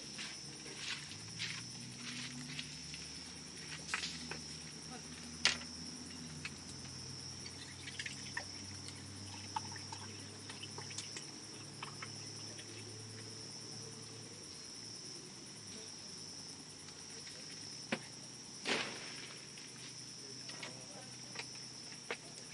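Wood campfire crackling with scattered sharp pops, the loudest about five seconds in and again near nineteen seconds, over a steady high trill of insects.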